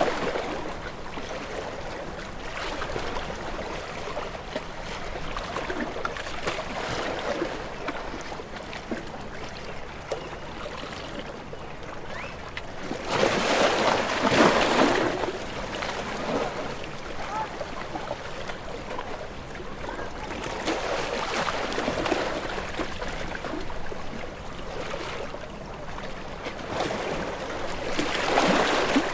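Ocean waves washing ashore: a steady rush of water, with a bigger wave surging in about halfway through and another near the end.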